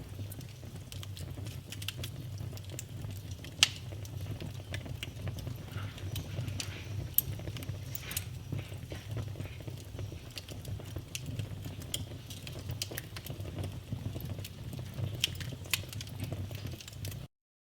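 Wood fire burning in a fireplace, crackling with irregular snaps and pops over a low, steady rumble, a few pops standing out louder. The sound cuts off suddenly near the end.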